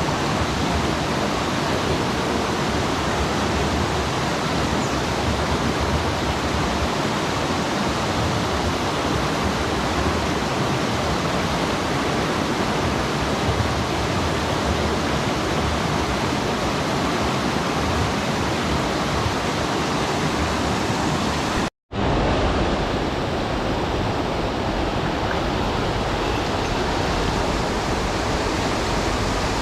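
Steady rush of a mountain stream's flowing water, cut by a split-second dropout about two-thirds of the way through.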